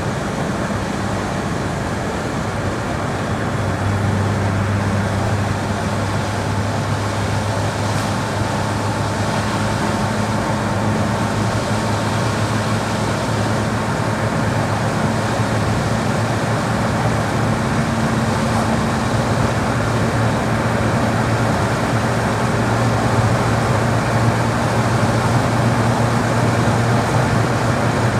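VAZ-2108's 1.1-litre four-cylinder engine running steadily, its low hum shifting slightly in pitch now and then, over a constant haze of road noise.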